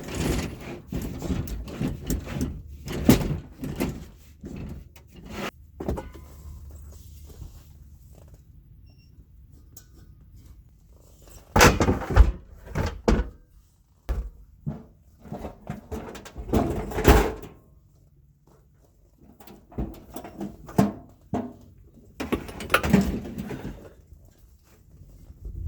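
Irregular thuds and knocks of things being handled and moved about, with several louder clusters of clattering spread through.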